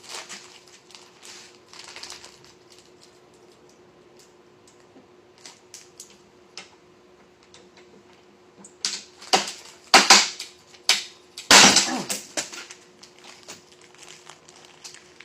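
Anhydro agate geode being cracked open: scattered light taps and clicks, then a cluster of loud sharp cracks and crunches from about nine to twelve seconds in as the stone breaks.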